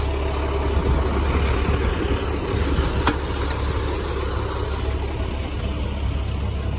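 The 7.6-litre MaxxForce diesel of a 2014 International DuraStar 4300 box truck idling steadily with a low rumble. A single sharp click about three seconds in.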